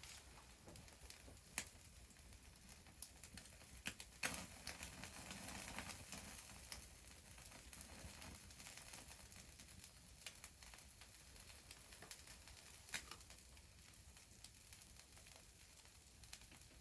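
Wood fire crackling faintly, with a few sharp pops scattered through and a brief louder hiss about four seconds in.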